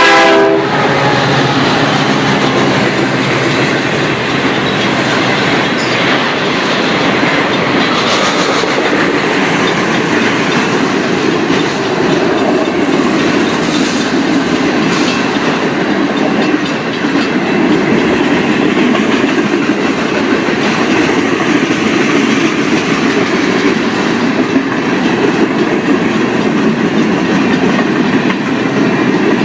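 A diesel locomotive horn cuts off in the first second, then the cars of a fast mixed-freight train roll by: a steady, loud rumble of wheels on rail with clickety-clack over the joints.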